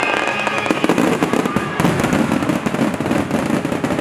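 Aerial firework shells bursting in a rapid, dense barrage, many bangs overlapping with steady crackling.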